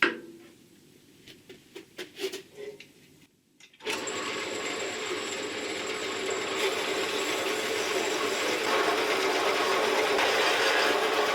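Horizontal metal bandsaw cutting through steel, starting about four seconds in after some light handling clicks and running steadily. The cut is smooth and straight, the blade no longer vibrating now that it is braced with clamps.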